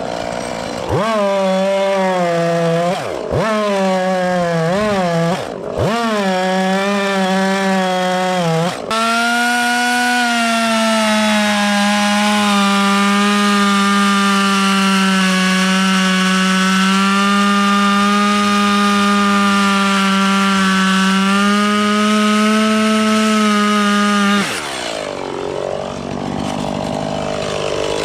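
Chainsaw engine blipped up and down several times, then held at full throttle for about fifteen seconds, cutting wood into stove-length pieces. Its pitch drops away near the end as the throttle is released.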